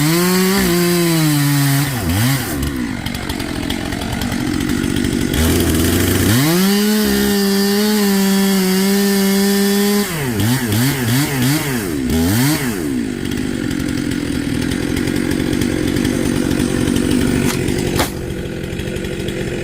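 Two-stroke chainsaw held at full throttle for a couple of seconds at a time, blipped up and down between. The steady tone blurs in stretches, typical of the chain cutting through wood under load.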